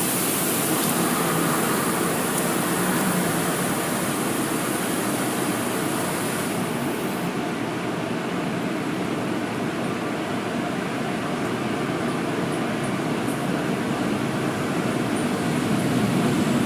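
Steady rushing vehicle noise. A high hiss in it drops away about seven seconds in.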